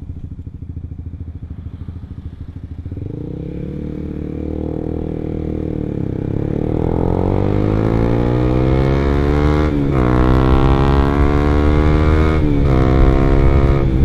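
Honda CBR150R single-cylinder four-stroke engine breathing through an R9 aftermarket exhaust, pulling hard under acceleration while riding: the note climbs steadily, then dips and climbs again twice, about ten and twelve and a half seconds in, as the rider shifts up.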